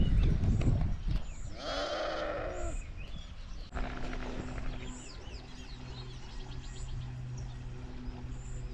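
A single quavering bleat from a goat or sheep-type animal, about two seconds in. Short high chirps repeat roughly once a second, and a steady low hum sets in about halfway through.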